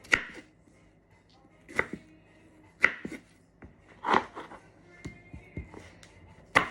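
Knife chopping strawberries, five separate chops at an uneven pace, about one a second.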